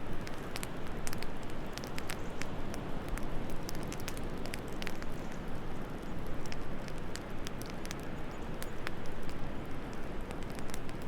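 Wood fire crackling with scattered, irregular sharp pops over a steady low rush of wind.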